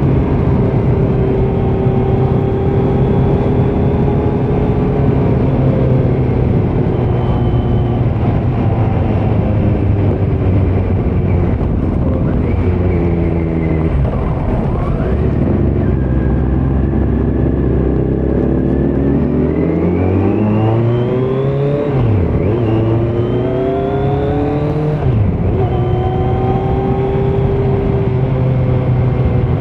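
2018 Kawasaki Z900's inline-four engine through a Leo Vince muffler with no dB killer, running steadily on the road. Partway through the revs fall away, then it accelerates hard, pitch rising, with quick upshifts about two-thirds of the way in and again a few seconds later. After that it settles back to a steady cruise.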